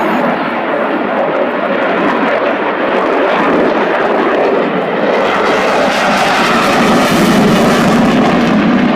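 Eurofighter Typhoon FGR4 fighter jet's twin EJ200 turbofans, loud and steady during a high-G display manoeuvre. The jet noise grows brighter and a little louder about halfway through.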